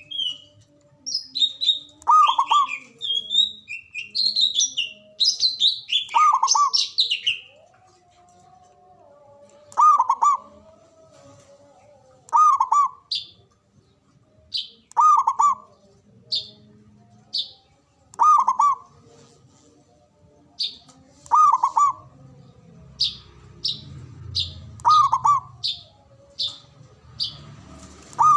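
Zebra dove (perkutut) cooing: a short call repeated about every two and a half to three seconds. High chirps of other small birds run alongside, busiest in the first several seconds.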